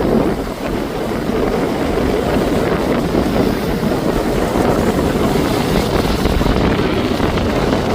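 Steady rushing noise of ocean waves washing against the shore, mixed with wind buffeting the microphone.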